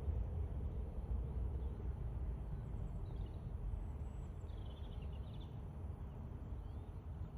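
Small birds chirping a few times over a low rumble that slowly fades.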